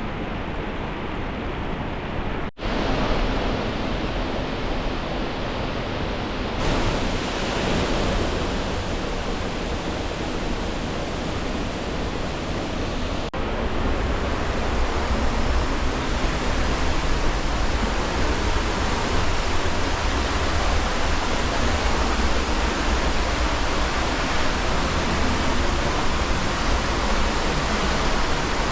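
Loud, steady rush of falling water from a waterfall. Its tone shifts abruptly three times, at about 2.5, 6.5 and 13 seconds in.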